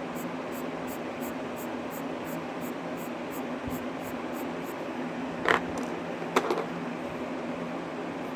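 Electric fan running steadily with a low hum, under faint rhythmic scratching of colored-pencil strokes on paper, about three a second, that stops a few seconds in. Past the middle come two short, sharp knocks just under a second apart, the loudest sounds.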